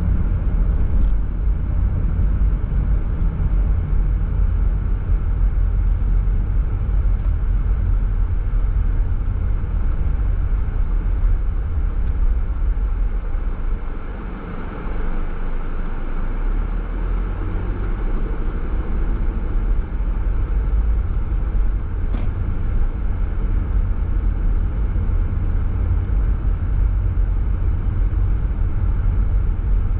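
Car driving along a road: a steady low rumble of tyre and road noise, easing briefly about halfway through, with a couple of faint clicks.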